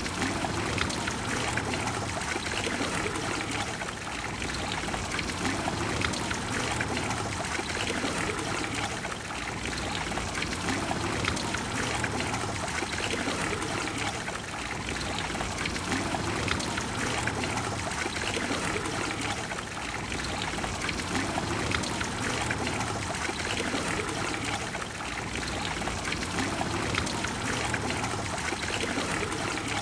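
Water of the Trevi Fountain cascading and splashing into its basin: a steady, even rush of falling water that swells and eases slightly.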